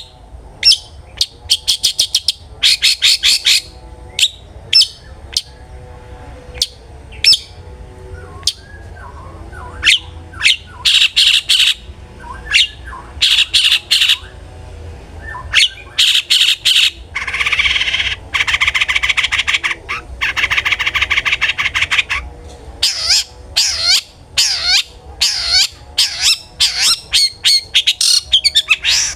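Long-tailed shrike (cendet) singing hard: a string of harsh, scratchy chattering notes and short buzzy bursts, with a longer grating rattle in the middle, the kind of loud song used as a lure to set other cendets singing.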